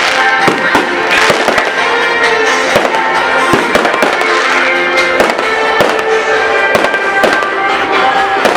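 Fireworks popping and crackling in rapid, irregular bursts over loud music.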